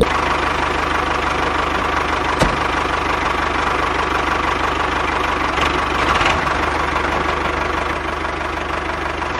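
Small motor of a DIY mini model tractor running steadily with a fast, rattly beat.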